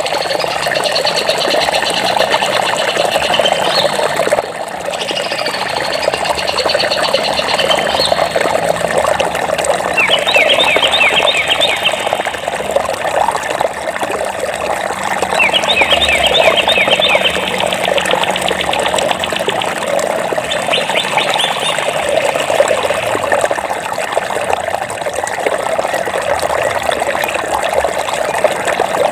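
Water running steadily, with small birds singing over it in several short trilled phrases of quickly repeated notes.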